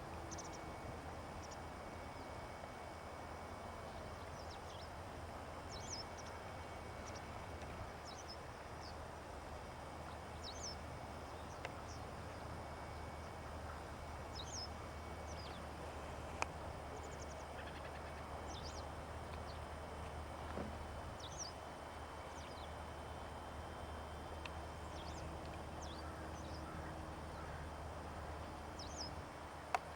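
Many short, high chirps from small birds calling, scattered across a steady background hiss of the outdoors. There is a sharp click near the middle and another near the end.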